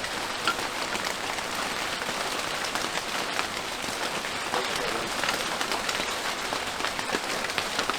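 Heavy rain falling steadily: a dense, even hiss full of small drop impacts.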